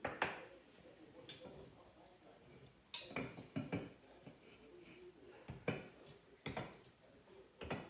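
A series of sharp knocks and clatters of kitchen items being handled and set down, about seven in all: one right at the start, a quick cluster about three seconds in, and more near the end.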